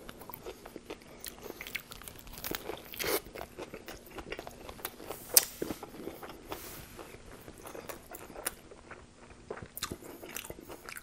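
A man chewing a mouthful of Subway Italian BMT flatbread sandwich, close-miked: irregular crisp crunches of lettuce and vegetables between quieter wet chewing. The loudest crunch comes about five seconds in.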